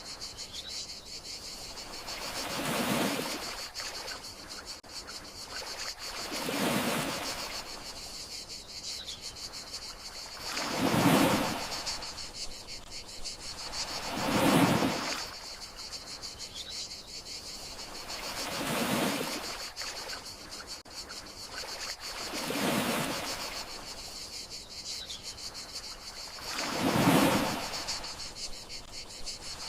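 Gentle sea waves washing onto the shore, one swell about every four seconds, over a steady high cricket chirping.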